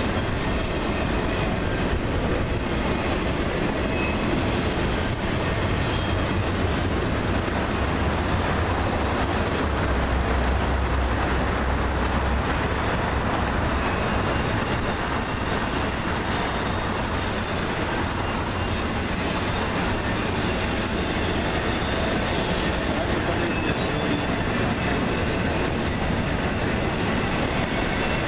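Freight train cars rolling past steadily on the rails, with a thin, high wheel squeal setting in about halfway through.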